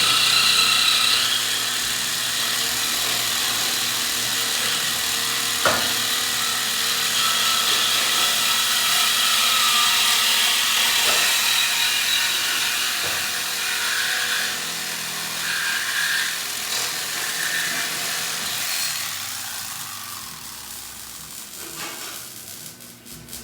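Power tool running with a steady high-pitched whine, one sharp click about six seconds in, fading over the last few seconds.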